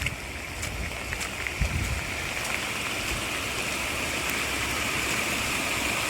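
Steady rush of running water, storm runoff from heavy hurricane rain, with a few faint knocks in the first couple of seconds.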